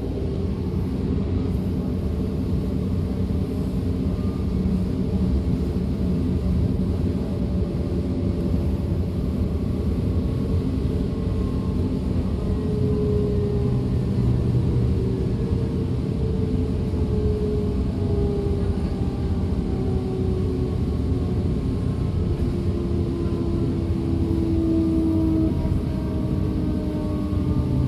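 A DB Class 425 electric multiple unit heard from on board while running: a steady rolling rumble. From about halfway on, a faint whine from its traction equipment glides slowly downward in pitch several times.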